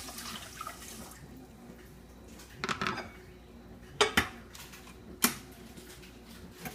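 Kitchen pots and utensils clattering: a short rattle, then three sharp metallic knocks, over faint water sounds.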